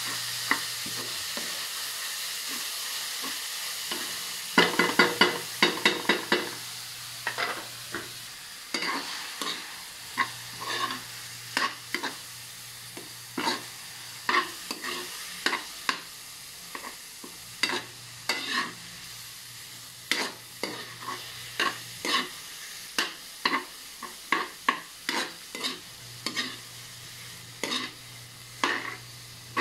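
Ground meat and onions sizzling in a metal wok as they are stir-fried, with a spoon scraping and knocking against the pan. The scrapes start about four seconds in and keep coming in quick runs over the steady sizzle.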